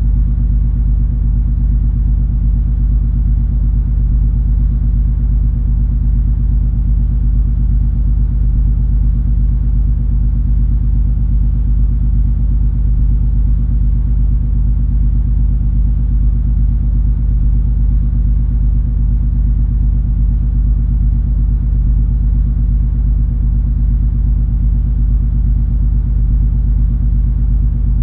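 Cruise ferry MS Color Magic under way: a steady, deep rumble of the ship's engines and hull, with a constant low drone in it.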